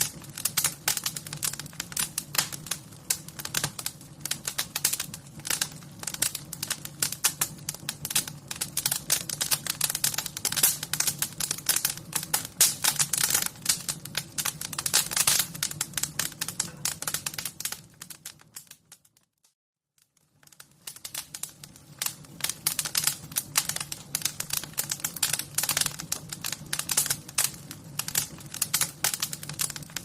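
Wood fire crackling: a dense, irregular stream of sharp crackles and pops over a low steady rumble. About two-thirds of the way through it fades almost to silence, then fades back in a couple of seconds later.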